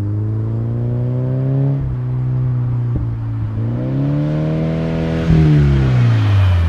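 2013 Subaru BRZ's 2.0-litre flat-four running through a Magnaflow cat-back exhaust, accelerating hard. The pitch dips about two seconds in as it changes up a gear, then climbs again. It is loudest about five seconds in, after which the pitch falls steadily away.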